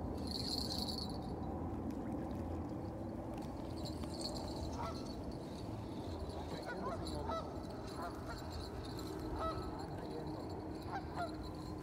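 Birds calling: about five short calls that rise in pitch, a second or two apart, over a steady low background noise.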